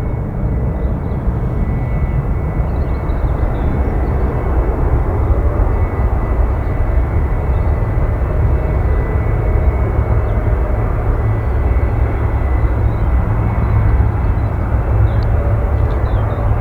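Boeing 777-300ER's GE90 jet engines running, a steady deep rumble with a faint high whine, growing a little louder about five seconds in.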